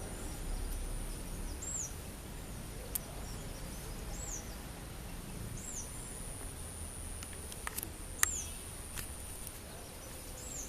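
Garden ambience: a small bird repeats a short, high, up-and-down call five times, roughly every two seconds, over a steady thin high whine and a low background rumble, with a few faint clicks.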